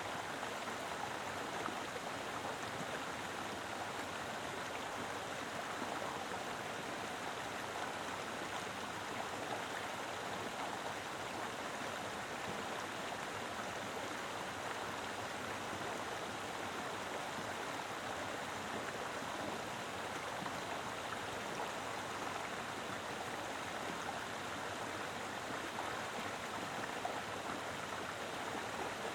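Mountain river rushing steadily over rocks, a full, even flow of water with no breaks.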